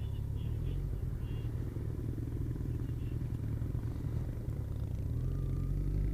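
Kawasaki ZZR1400's inline-four engine running with a steady low rumble, growing a little louder about five seconds in.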